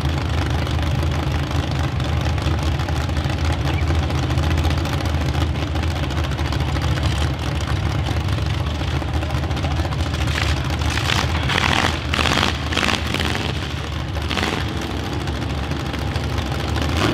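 Demolition derby cars' engines idling together in a steady low rumble, with a few short, loud bursts of noise about two-thirds of the way through.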